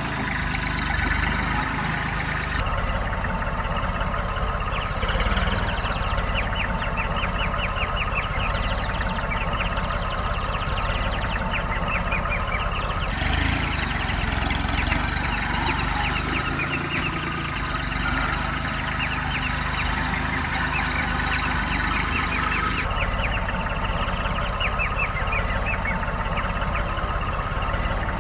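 A small engine running steadily, with chickens clucking over it.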